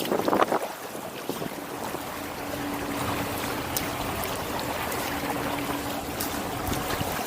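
Water splashing and lapping around a paddled kayak, loudest in the first half second. A faint steady hum joins from about two seconds in.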